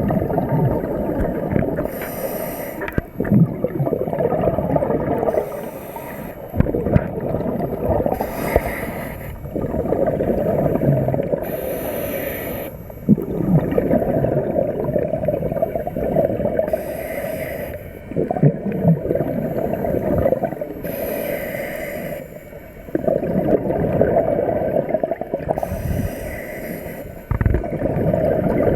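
Scuba diver's regulator breathing underwater: a bubbling exhalation rushes out about every three to four seconds over a steady low rumble.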